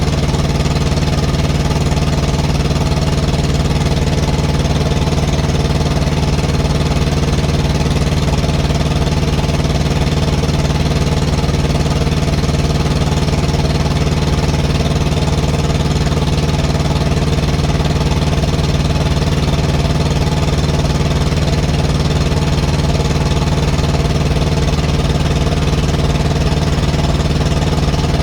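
Thermo King TriPac Evolution APU's three-cylinder diesel engine running steadily at throttle-up speed with the air conditioning on. It runs a little rough and a little loud from a small exhaust leak on the backside.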